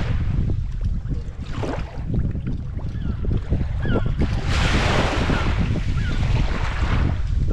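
Wind buffeting the microphone with a steady rumble, over the sound of water at the shore. About halfway through, a louder hissing rush sets in and lasts a couple of seconds, like a wave washing in.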